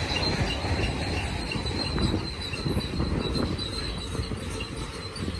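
Freight train cars rolling past with a steady, high-pitched wheel squeal over the low rumble of the wheels on the rails.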